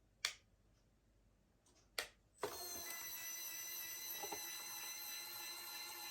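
Two sharp clicks, then a small motor starts suddenly and runs steadily with a whine.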